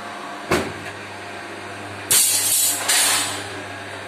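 A machine runs with a steady low hum. A short sharp burst comes about half a second in, then two loud hissing blasts like air being released about two seconds in.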